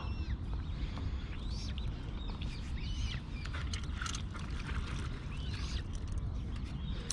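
Birds calling around a pond, short arched chirps every second or so, over a steady low rumble.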